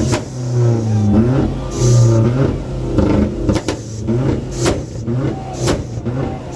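Car engine revved repeatedly, its pitch rising and falling with each rev. In the second half sharp cracks come about once a second.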